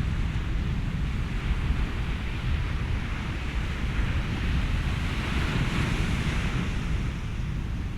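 Ocean waves and wind: a steady low rumble, with the hiss of a wave washing in swelling about five seconds in and fading near the end.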